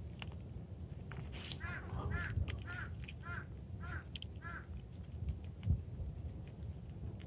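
A bird calling about six times in an even series, roughly two calls a second, each call rising and falling in pitch. A single low thump follows near the end.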